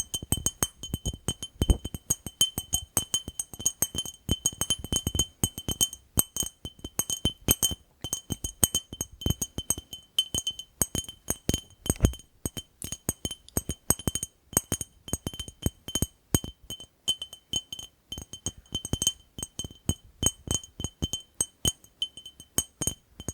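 Fast, irregular tapping on a glass jar: many sharp clicks a second, each with a bright, ringing glass note.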